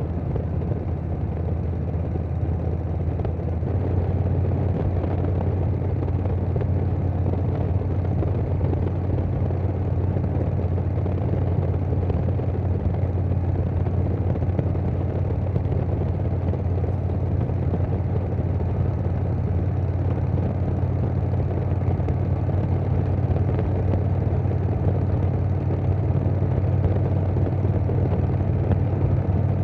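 2020 Harley-Davidson Softail Standard's Milwaukee-Eight V-twin running steadily through a Vance & Hines Big Radius 2-2 exhaust while riding, with wind noise. It grows a little louder about four seconds in.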